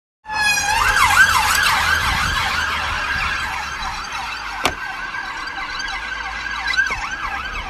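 Emergency vehicle siren wailing in fast rising and falling sweeps several times a second, over a low vehicle rumble, with one sharp click about halfway through.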